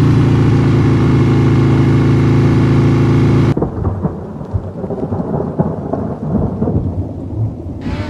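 Motorcycle engine running loud and steady at an even pitch, cutting off suddenly about three and a half seconds in. Then comes quieter, irregular rustling and crackling with a low rumble.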